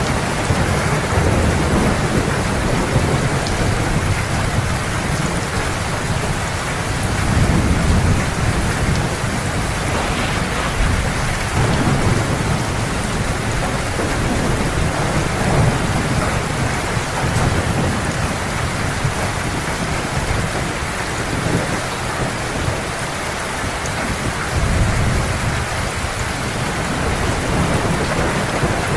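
Heavy rain falling steadily with low rolling thunder that swells and fades every few seconds.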